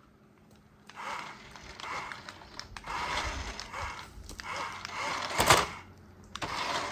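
Small geared motor of a toy running in short, separate bursts after a brief quiet start, with a sharp click about five and a half seconds in.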